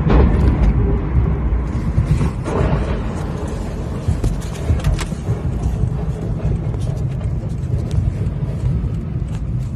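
A motor vehicle's steady, low road and engine rumble, with a sharp knock right at the start and fainter knocks about two and a half and five seconds in.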